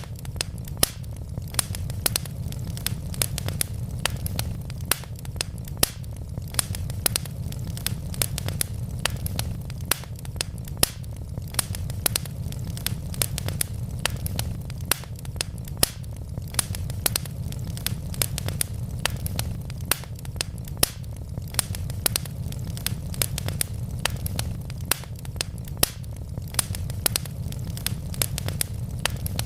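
Wood fire burning in a fireplace: a steady low rumble of the flames with sharp crackles and pops from the burning logs, several a second at irregular intervals.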